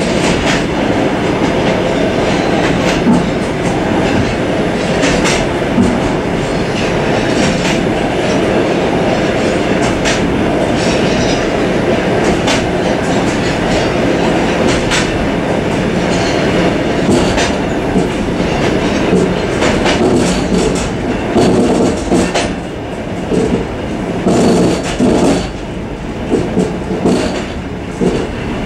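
Suburban train running along the track, heard from inside its vestibule: a continuous rumble of wheels on rail with scattered sharp clicks over rail joints. In the last few seconds it turns into uneven, pulsing clatter.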